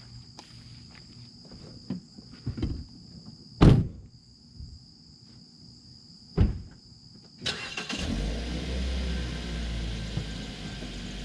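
Footsteps and two loud thumps over a steady high whine, then a car engine starts about seven and a half seconds in and settles into a steady low running rumble.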